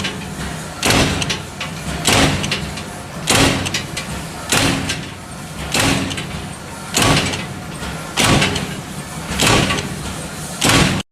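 A machine working in a steady repeating cycle, with a surge of noise about every second and a bit over a steady running sound.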